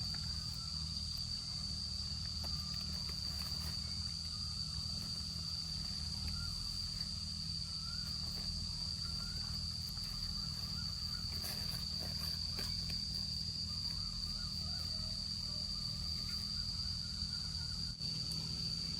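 Insects droning steadily at one high pitch, with faint scattered chirps under it and a low rumble of outdoor background noise.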